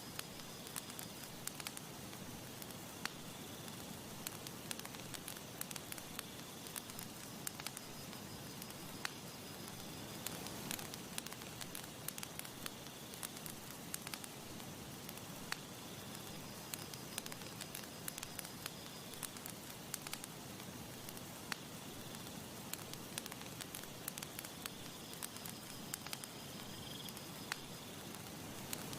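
Campfire burning: wood crackling with frequent sharp pops and snaps over a steady soft hiss. A faint high trill comes and goes every several seconds.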